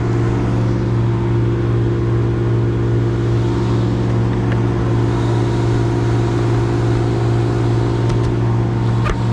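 An engine running at a steady, unchanging idle, a constant loud drone with no revving.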